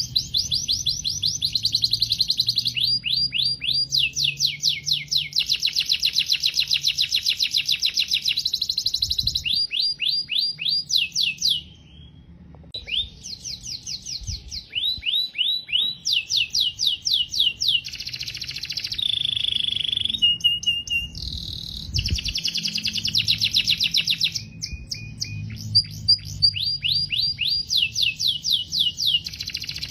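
Canary singing a long, fast song of rapid trills, each a run of quickly repeated notes, with a brief pause about twelve seconds in and a few short steady whistled notes near twenty seconds.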